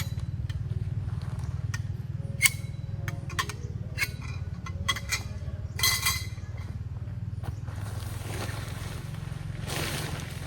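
Scattered clinks and taps of cookware over a steady low mechanical hum.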